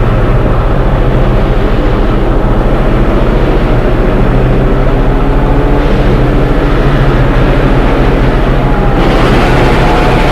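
Train running with a loud, steady low engine drone and rumble, and a faint tone wavering above it. The sound shifts slightly about nine seconds in.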